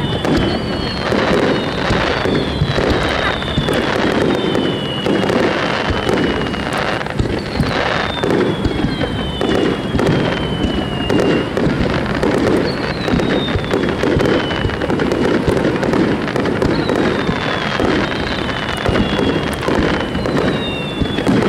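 Japanese fireworks barrage (star mine) going off without pause, a dense run of bursts and crackling, with a high whistle falling in pitch every few seconds.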